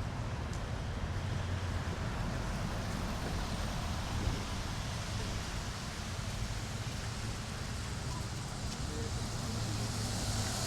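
City street ambience: a steady low traffic rumble and background noise, with a vehicle growing louder near the end.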